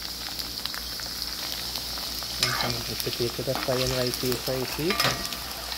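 Potato wedges frying in hot oil in a cast-iron pot: a steady sizzle with crackles, and a wooden spoon scraping and turning them in the pot. A voice is heard briefly from about halfway through.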